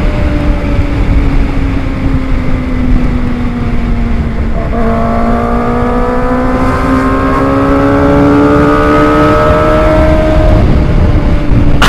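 Kawasaki ZX-25R's inline-four engine running on the move. Its pitch sinks slowly for about five seconds, then after a gear change the revs climb steadily.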